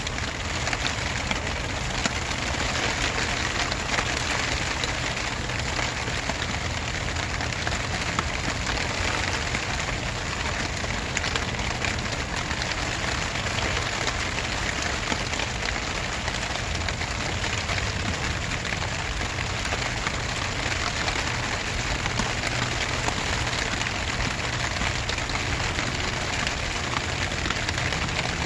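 Steady rain falling, an even hiss with individual drops ticking close by.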